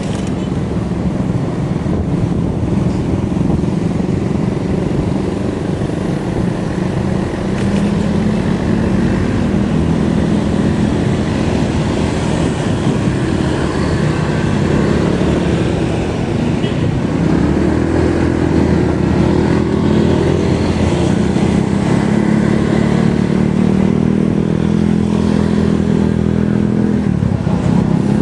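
Motorcycle engine running under way, its pitch rising and falling as the revs change through the gears, over steady road and wind noise.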